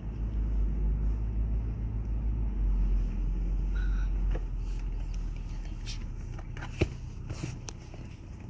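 Car engine running, a low steady rumble heard from inside the cabin, which eases off about halfway through. A single sharp click near the end.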